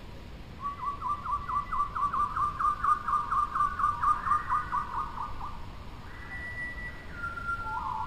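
Bird calling: a fast run of clear notes, about four to five a second, rising slightly and then falling away, followed near the end by long, level whistled notes at two pitches.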